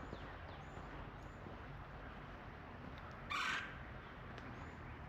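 A bird gives a single short, harsh caw a little past the three-second mark, with a few faint high chirps from small birds in the background.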